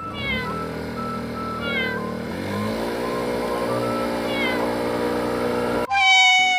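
A steady layered background with faint falling chirps, then a loud, drawn-out cat meow near the end.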